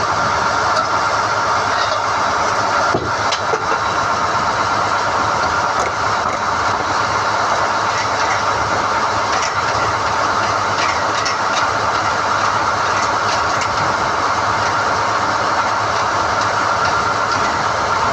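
SDH-1600 core drilling rig running steadily while NQ drill rods are hoisted out of the hole, with a few light metallic clicks, the clearest about three seconds in.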